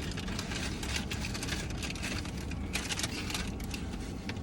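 Steady low hum of a car's cabin with the engine running, under many small irregular crackling clicks.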